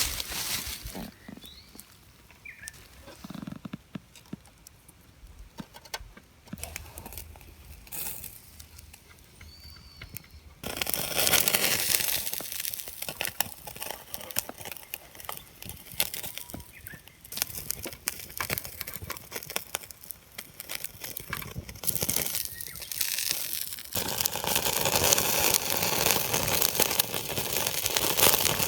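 Negima skewers (chicken and leek) grilling over an open wood campfire, with scattered crackles of the fire. About ten seconds in a dense sizzling and crackling starts suddenly, and it grows louder again near the end.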